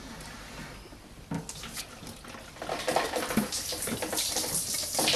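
Water running and splashing, with a few short knocks in the first seconds; the running water gets louder and steadier about halfway through.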